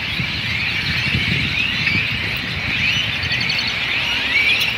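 A large flock of birds chattering and calling at once, a dense, unbroken mass of overlapping chirps and squeaks, over a low rumble.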